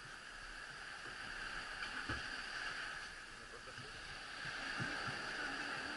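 Steady outdoor background hiss, with faint distant voices now and then.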